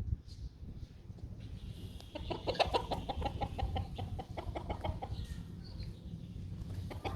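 A bird clucking: a quick run of short, evenly spaced clucks, about eight a second, lasting about three seconds, starting about two seconds in.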